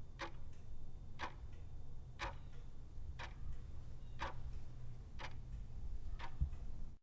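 Clock ticking about once a second, over a steady low hum.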